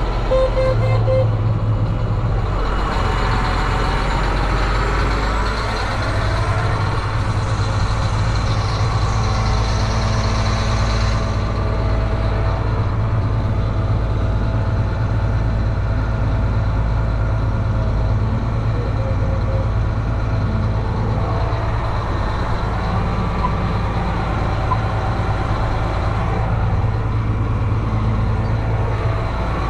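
A vehicle engine running steadily at a constant speed, with a continuous low hum.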